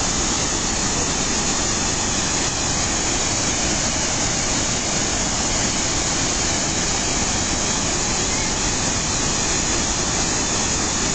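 Fukuroda Falls, a large waterfall, pouring down with a steady, unbroken rush of falling water.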